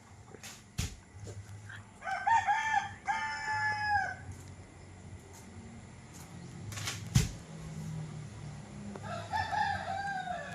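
A rooster crowing twice, once about two seconds in and again near the end, each crow a drawn-out multi-part call. A few sharp knocks come in between, the loudest about seven seconds in.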